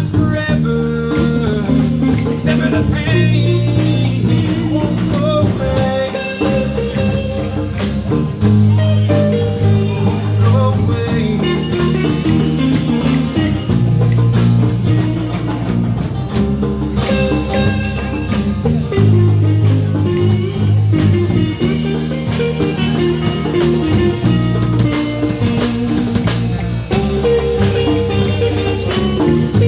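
Blues band playing live, with a guitar lead line over a walking bass and a drum kit keeping a steady beat.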